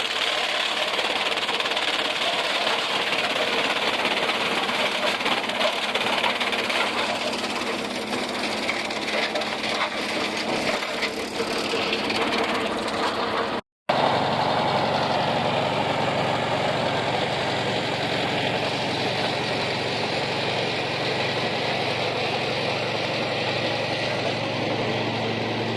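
Farmall 400 tractor engine running steadily, belt-driving an antique Blizzard silage chopper. The sound drops out for an instant about 14 seconds in, then the machinery carries on with a steady low hum.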